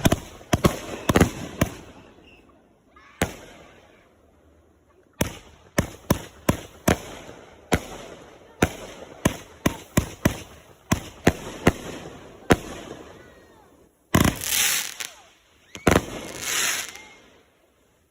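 A 500-gram, 20-shot consumer fireworks cake firing. Sharp shot reports come a few at a time at first, then pause, then fire in a quick run of about one or two a second. Near the end come two longer noisy bursts of about a second each.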